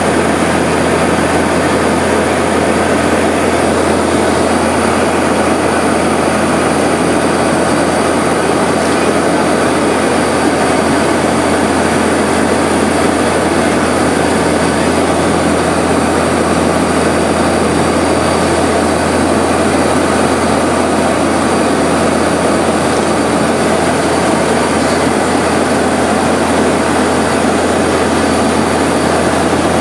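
Seaplane's propeller engines droning steadily, heard loud from inside the cabin during the approach, with a constant low hum underneath and no change in pitch.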